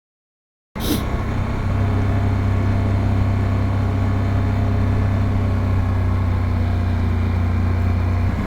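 Motorcycle engine running steadily at cruising speed, a constant drone, with wind and road noise on the helmet microphone. It comes in suddenly after a brief dead silence in the first second.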